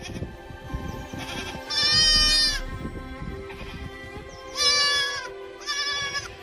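Three drawn-out bleating calls, each with a steady pitch that drops slightly at the end: one of about a second near the start, then two shorter ones close together near the end.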